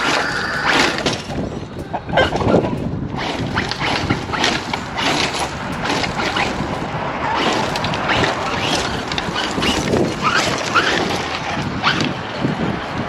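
Battery-powered 1/8-scale Serpent SRX8 RC buggy driving on loose ground, its motor and tyres running continuously with short rising whines as it speeds up, against wind on the microphone.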